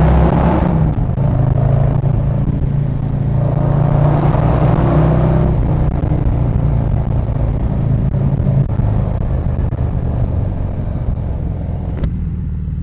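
Harley-Davidson Road Glide V-twin with aftermarket pipes running under way, with wind rushing over the rider's mic; the wind swells twice in the first half. A sharp click near the end, after which the wind hiss drops away.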